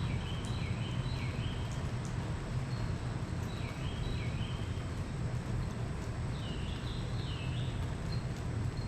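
A bird calling in repeated phrases of short, quick chirps over a steady low background rumble.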